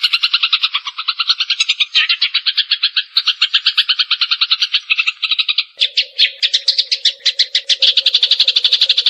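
Eurasian tree sparrows chirping in a loud, unbroken rapid-fire chatter, about ten short chirps a second. A low steady tone joins about six seconds in.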